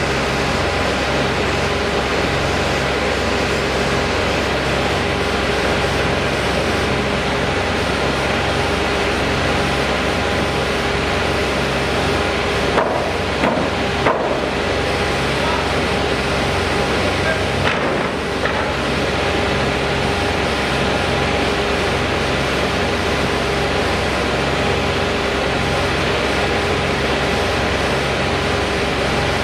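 A machine runs steadily with a low, slowly pulsing hum and several steady tones. A few sharp knocks come about halfway through.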